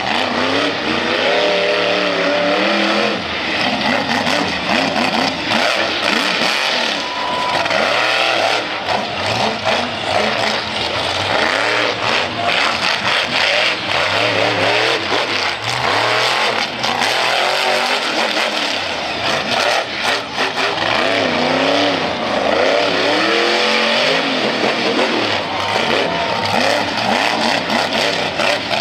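Monster truck engine running hard and revving repeatedly, its pitch climbing and falling again and again, with scattered sharp knocks over it.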